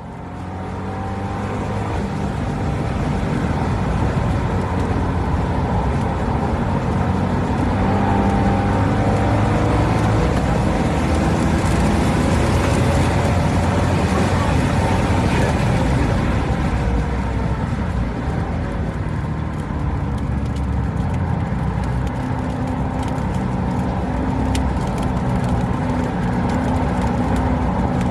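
A C6 Corvette Grand Sport's 6.2-litre V8 lapping a race track, heard from on board. The engine note is loud and continuous, its pitch rising and falling as the car accelerates and slows, over a steady rush of road and wind noise. It fades in at the start.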